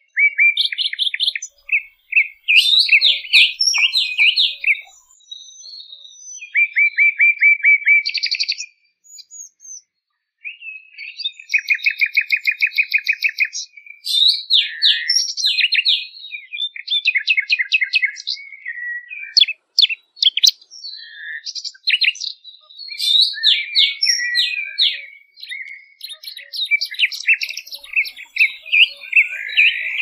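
Songbird singing: bursts of rapid trills of evenly repeated notes, mixed with sharp chirps and short whistled phrases, with a brief pause about nine seconds in.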